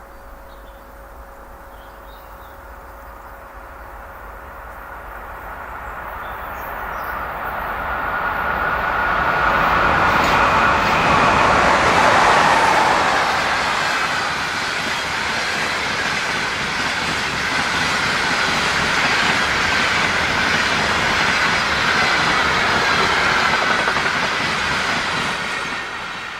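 EP20 electric locomotive hauling a passenger express train past at speed. The rumble builds as it approaches and is loudest a little under halfway through as the locomotive passes. The carriages then follow with a steady rush of wheels on rail that eases off near the end.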